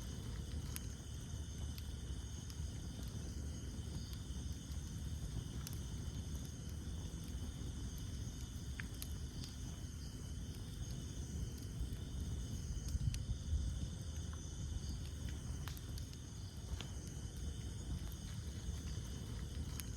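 Wood campfire burning with a low steady rumble of flames and sparse sharp crackles and pops. Night insects trill steadily in the background, their high buzz pausing briefly every few seconds.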